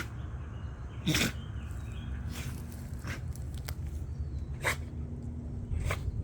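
A dog sneezing again and again in an uncontrollable fit: about six short, sharp sneezes, the loudest about a second in. The owner thinks she got into something, perhaps an inhaled ant.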